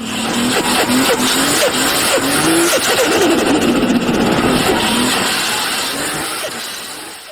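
A car engine revving hard over a loud, dense roar, its pitch rising and falling in quick repeated swings, and fading toward the end.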